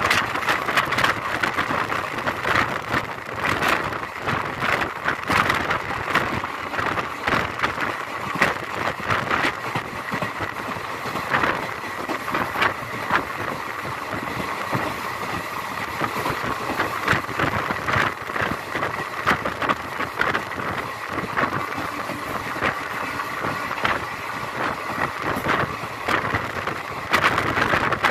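Passenger train coach in motion, heard from on board: a steady running noise of wheels on the rails, broken by frequent small knocks and rattles.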